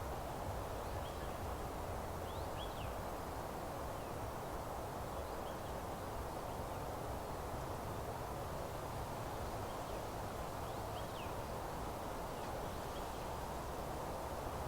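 Steady rustle of wind in leaves, with a few faint, brief high bird chirps scattered through it.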